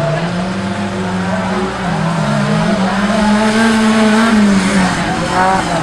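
Off-road 4x4 engine revving under throttle, its pitch rising about a second in, dipping briefly, then falling near the end.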